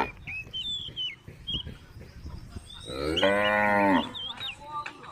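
A cow mooing: one drawn-out moo of about a second, starting nearly three seconds in. Faint high chirps are heard before and during it.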